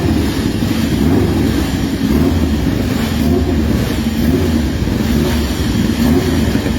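Motorcycle engines running, a steady low drone whose pitch wavers a little.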